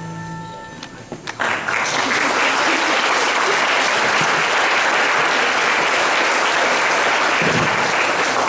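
Audience applauding, breaking out about a second in just after a held musical chord dies away, then clapping steadily and loudly to the end.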